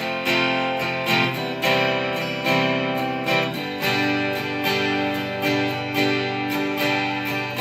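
Acoustic guitar strumming chords in an instrumental passage between sung lines, a new strum about every 0.8 seconds with the chords ringing between.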